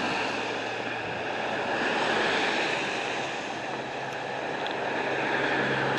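Steady rushing noise of road traffic going past, swelling and fading slowly twice, with a faint low engine hum under it.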